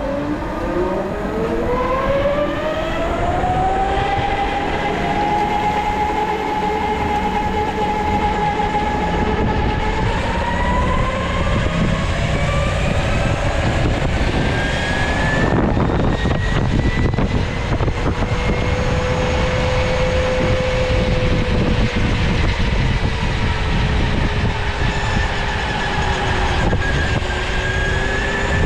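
Electric go-kart's motor whining as it drives, rising steeply in pitch over the first few seconds as the kart pulls away, then holding and shifting up and down with speed, over a steady low rumble.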